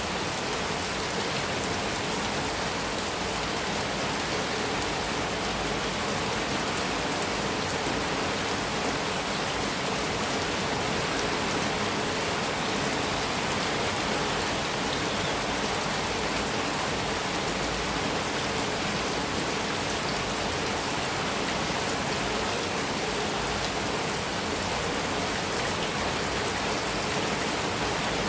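Heavy rain falling steadily on a metal roof, a dense, even hiss with no thunder.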